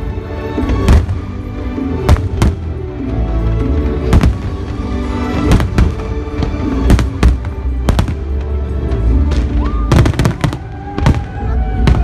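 Fireworks going off in loud, irregular bangs, some in quick clusters, over music.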